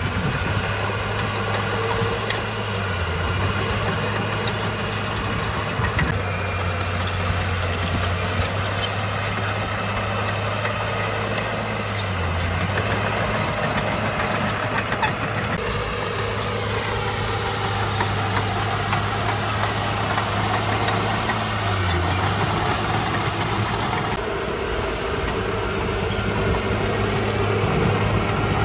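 Heavy diesel engine of earthmoving machinery running steadily, its low hum dipping briefly in pitch a few times as the load changes.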